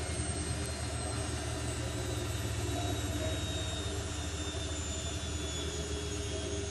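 Zanussi Lindo 100 washing machine spinning at high speed, a steady motor whine over a low drum rumble: the cycle's final spin, which goes up to 1400 rpm.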